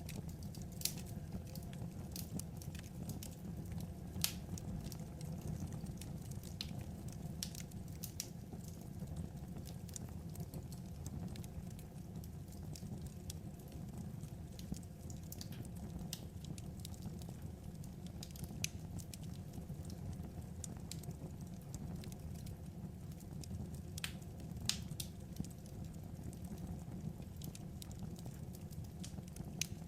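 Wood fire crackling: scattered sharp pops at irregular intervals over a steady low background noise.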